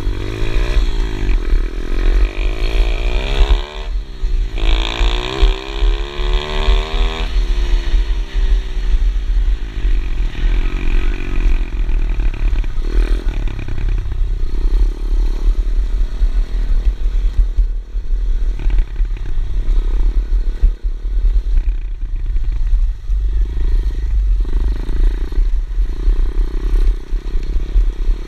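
Pit bike engine being ridden, its revs climbing twice in the first eight seconds and dropping back after each climb, then running lower and more evenly. A heavy low rumble runs under it throughout.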